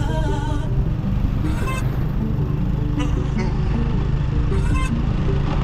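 A motor vehicle's engine running steadily, with short melodic notes sounding above it.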